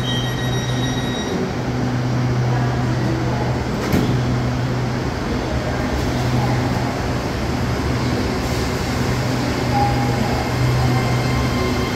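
Train running: a steady low mechanical hum with a single knock about four seconds in.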